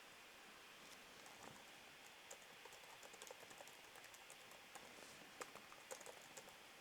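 Faint typing on a computer keyboard: a scatter of soft, irregular key clicks over a low steady hiss.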